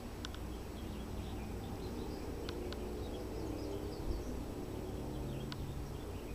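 Faint, scattered bird chirps with a few sharp clicks, over a steady low outdoor rumble.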